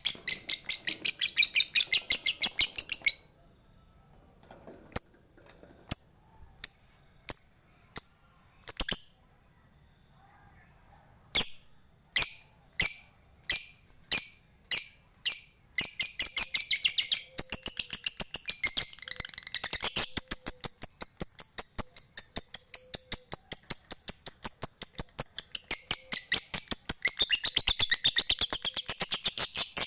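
Lovebird's long chattering song (ngekek), high-pitched and shrill, laced with rapid sharp ticking notes (ngetik). It breaks off after about three seconds, leaving single ticks roughly once a second, then the long chatter starts up again about halfway through and carries on.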